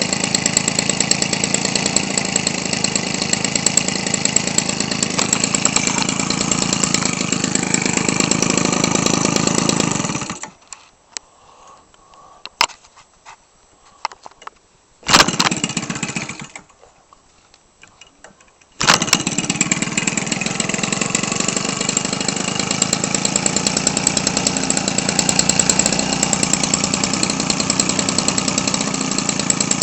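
Weed Eater Featherlite 21 cc two-stroke trimmer engine, converted to turn a model-airplane propeller, running steadily before it stops about ten seconds in. It fires briefly about five seconds later and dies, then starts again a few seconds after that and runs steadily.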